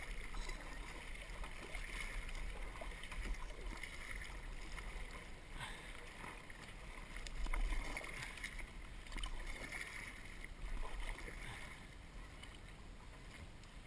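Lake water swishing and lapping around a canoe as it is paddled, with soft swells of sound every second or two. A steady low wind rumble sits on the microphone underneath.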